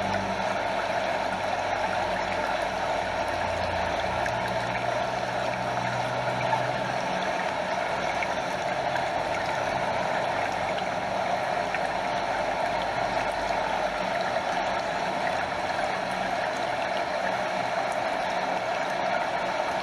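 Stream water flowing over a small waterfall: a steady, even rush of water.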